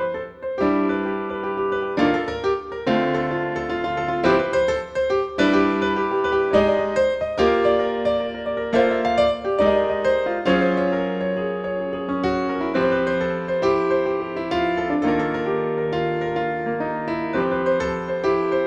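Piano music: chords and melody notes struck one after another and left to ring, at an unhurried pace.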